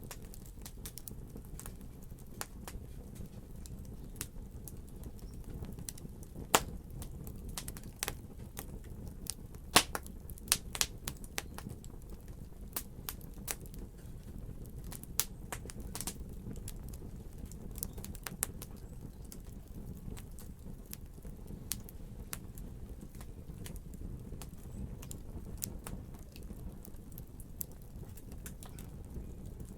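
Fire burning in a fireplace, crackling with frequent sharp pops over a steady low rush of the flames. The loudest pops come in a cluster about seven to sixteen seconds in.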